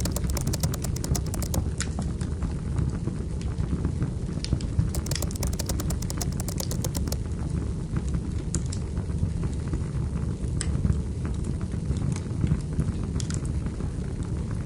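Wood fire crackling in a fireplace: many sharp snaps and pops, some in quick runs and some single, over a steady low rumble of burning.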